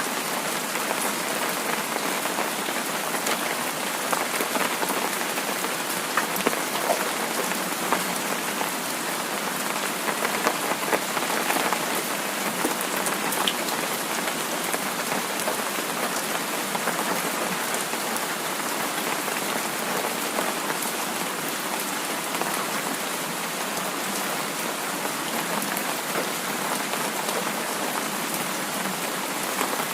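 Heavy rain falling steadily: a dense, even hiss with many scattered ticks of individual drops.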